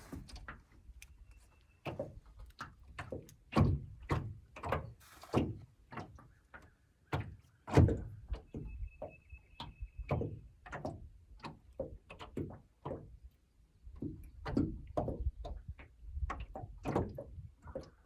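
A series of irregular dull knocks and thunks, two or three a second, with a faint steady high tone for about two seconds midway.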